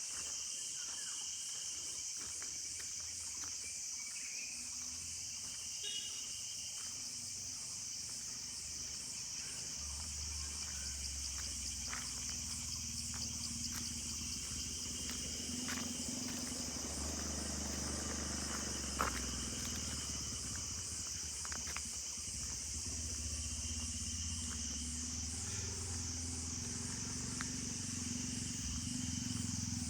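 Forest insect chorus: a steady, high-pitched shrill trill with a fine rapid pulse. Beneath it a low rumble swells in from about a third of the way through, with scattered light clicks and one sharper click about two-thirds in.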